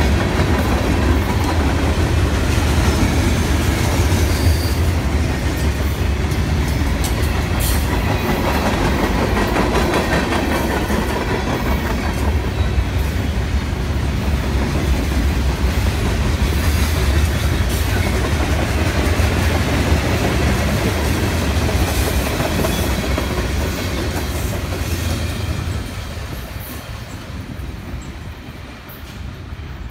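Freight cars of a mixed train rolling past: a steady low rumble of steel wheels on rail with clicking over the rail joints, fading over the last few seconds as the end of the train goes by.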